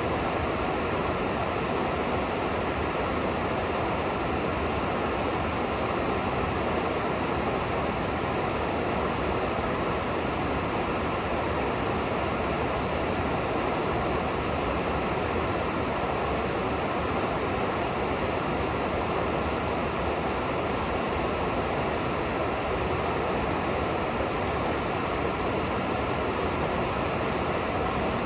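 River water rushing past, a steady, unbroken rush of moving water.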